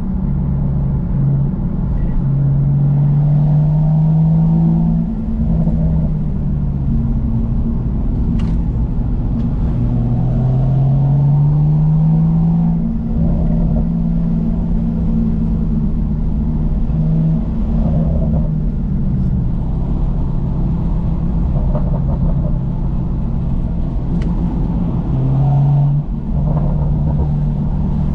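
BMW M2's N55 turbocharged straight-six through a Remus aftermarket exhaust, driven under load. The engine note rises in pitch several times and drops back at each gear change, holding steadier between pulls.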